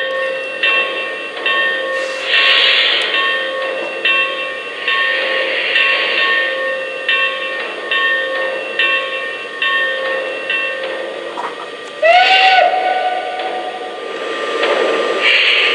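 Lionel Legacy B6sb 0-6-0 steam locomotive model's onboard sound system playing steam chuffing, about two to three chuffs a second, with longer hisses of released steam. About twelve seconds in, one short steam whistle sounds, rising into a steady note.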